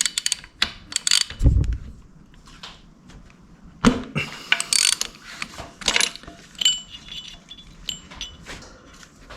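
Ratchet wrench clicking and tools clanking while the spark plug is loosened and taken out of a 1974 Yamaha DT100's two-stroke cylinder head, with irregular metallic clicks and one dull thump about a second and a half in.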